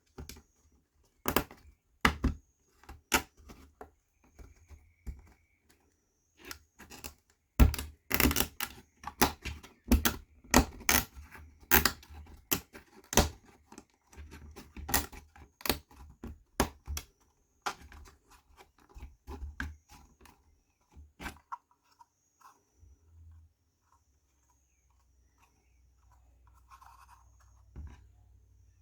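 Laser-cut wooden puzzle-box parts being pressed and fitted together: a quick run of sharp wooden knocks and clicks with some scraping for about twenty seconds, then only faint handling sounds near the end.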